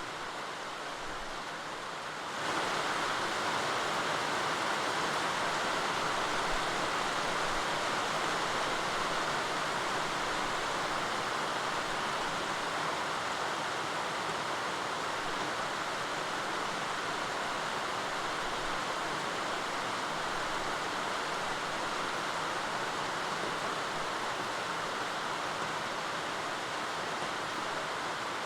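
Steady rain falling: an even, continuous hiss with no single drops standing out. It grows louder about two seconds in and then holds steady.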